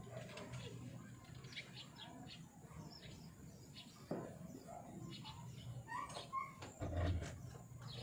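Birds chirping with short, high calls repeated throughout. A brief low thump about seven seconds in is the loudest sound.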